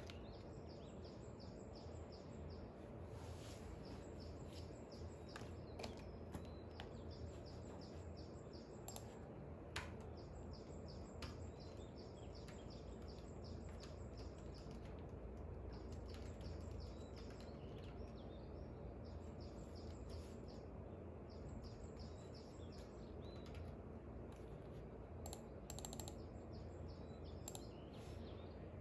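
Birds chirping in rapid repeated trills over a steady low background rumble, with scattered faint clicks.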